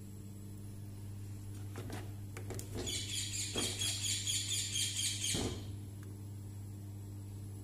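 A bird calling in a fast run of repeated high chirps, about six a second, lasting roughly two and a half seconds from about three seconds in. A few short knocks come just before and during the run, and a steady low hum lies under it all.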